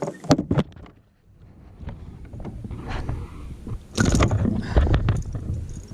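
Handling noise on a fishing kayak: a few sharp knocks in the first second, then louder rubbing and rustling about four seconds in.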